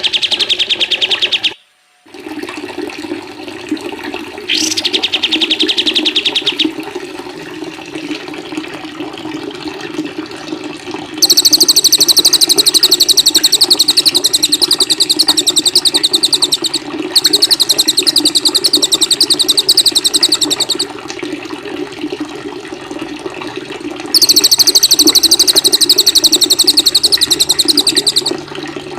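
Caged songbirds singing long, very rapid, high trills in several bouts of a few seconds each, the loudest near the end, over a steady sound of running water. The sound drops out briefly about a second and a half in.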